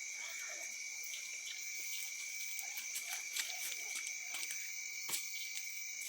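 Evening chorus of insects and frogs: a steady high trilling at two pitches, with scattered faint clicks and a sharper snap about five seconds in.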